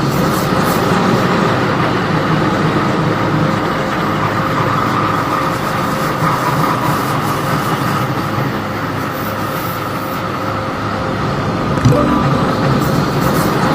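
MTR C-Train electric multiple unit running at speed, a steady rumble of wheels on rail with a constant hum from the drive, heard from inside the car. A single short knock about twelve seconds in.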